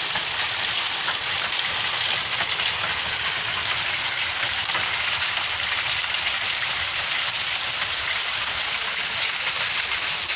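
Hail falling steadily, a dense, even patter of hailstones striking the ground.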